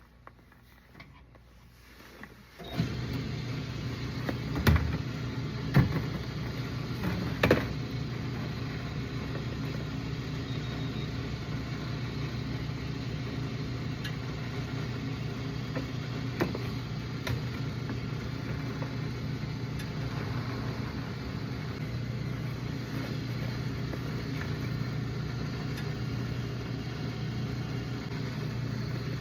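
Near silence for about two and a half seconds, then the steady engine and road drone of a truck driving, heard from inside the cab, with a few sharp knocks or bumps a few seconds after it begins.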